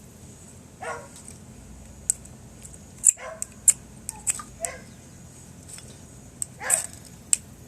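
A dog barking several times in short, falling barks, mixed with sharp pops and crackles from a wood campfire; the loudest pops come in the middle.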